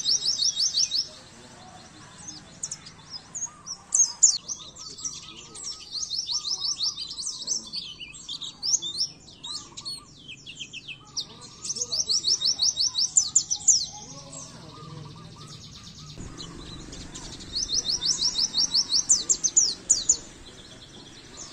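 White-eye (pleci) singing in rapid, high-pitched chirping trills. The song comes in several bursts of one to five seconds, with short pauses between them.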